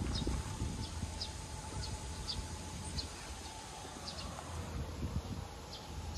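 A small bird chirping over and over in short, high notes, over a low rumble of wind and movement on the microphone.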